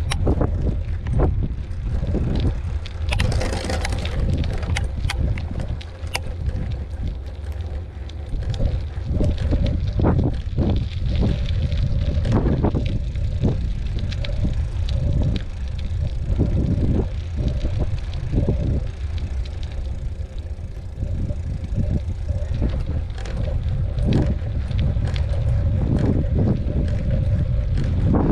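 Mountain bike riding over a rough dirt trail, its frame and parts rattling and clicking again and again, under heavy wind rumble on the microphone.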